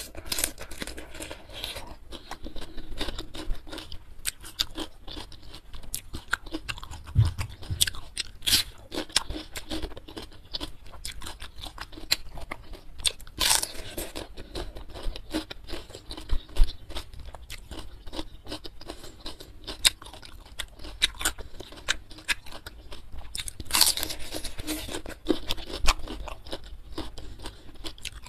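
Close-miked chewing and crunching of crisp raw cucumber, with many small wet clicks and a few sharper crunching bites scattered through, the loudest about halfway and again near the end.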